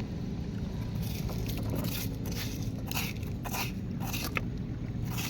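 A run of short crunching, scraping noises, roughly two a second, over a steady low rumble.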